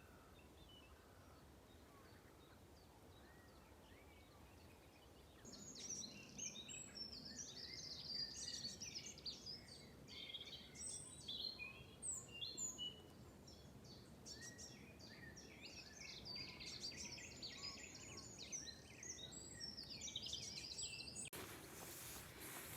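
Near silence, then wild birds singing, many short chirps and trills overlapping. A steady hiss comes in near the end.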